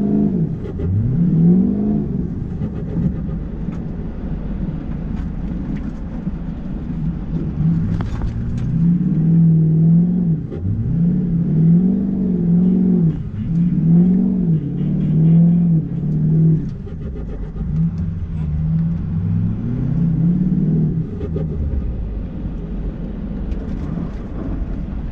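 Ford 6.0 Power Stroke V8 turbodiesel engine under way, repeatedly revving up and easing off, with its pitch rising and falling every second or two.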